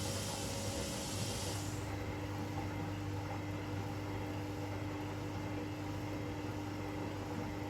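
Front-loading washing machines running with a steady mechanical hum. A hiss stops about two seconds in and a steady whine sets in.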